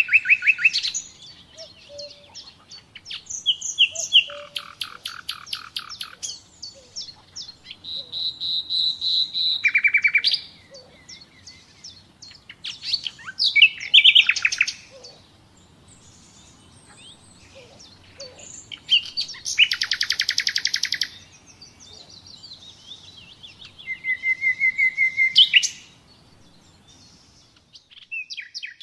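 Common nightingale singing a run of varied phrases separated by short pauses: fast repeated notes, rattling trills and clear whistled notes, with a long pulsed trill about two-thirds of the way through.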